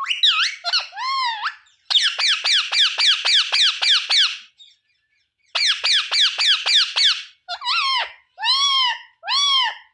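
Pet parrot calling: two fast runs of short, shrill calls at about five a second, then slower single arched calls.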